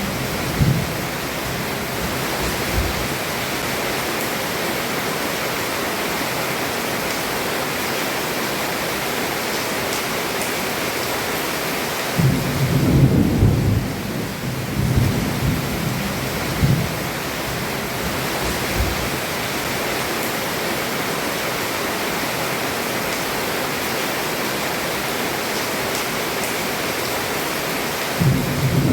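Heavy rain falling on a roof as a steady hiss. Thunder rumbles briefly near the start, then rolls more strongly about twelve seconds in, followed by a few shorter rumbles.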